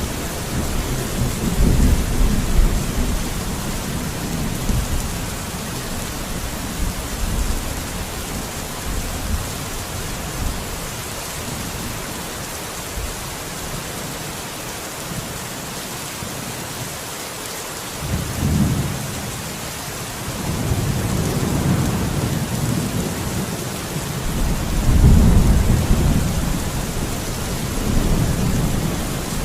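Steady rain hiss with rolling thunder: low rumbles over the first few seconds fade away, then return in several swells over the last third, the strongest near the end.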